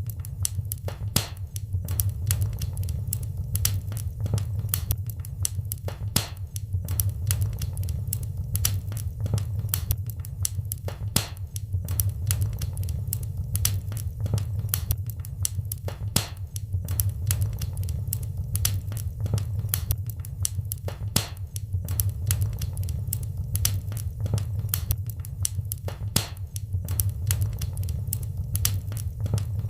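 Wood fire in a fireplace crackling, with a constant run of sharp pops and snaps, several a second, over a steady low rumble.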